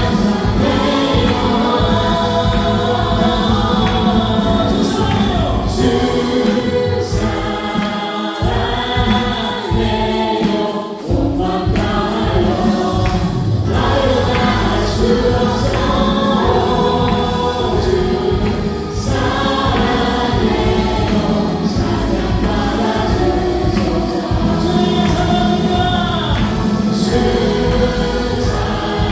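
Live contemporary worship music: a full praise band of keyboards, bass and drums playing under voices singing together, with a short thinner, softer passage about eight to eleven seconds in.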